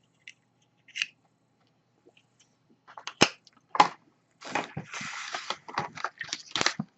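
Plastic packaging being handled: a few sharp clicks and snaps, then about two and a half seconds of continuous crinkling and rustling.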